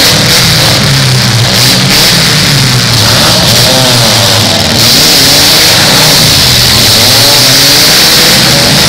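Demolition derby car engines revving hard and dropping back over and over, loud, the pitch rising and falling several times.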